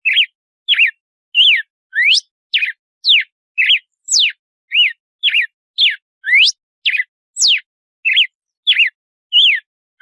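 Red-cowled cardinal (galo-de-campina) singing: a fast, even series of short clear whistled notes, about two a second, each slurring sharply up or down.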